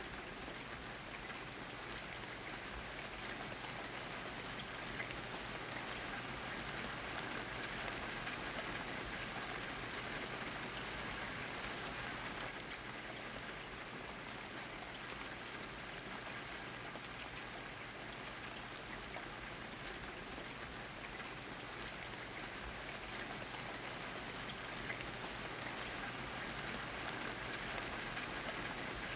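Steady rainfall, with many fine drops pattering on a surface.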